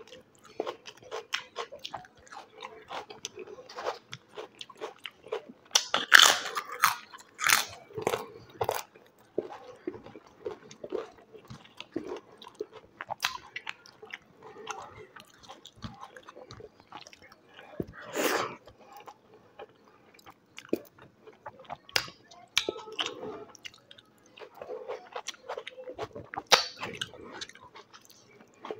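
A person eating close to the microphone: chewing with repeated sharp crunches of crisp food. The loudest crunches come in a cluster about six seconds in and again around eighteen seconds.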